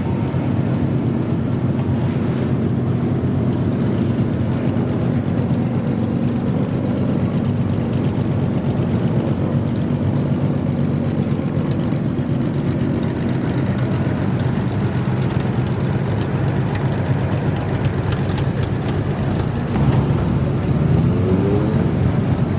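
Engine of a customized old Japanese car (kaido racer) running with a steady low rumble, then revving up about twenty seconds in.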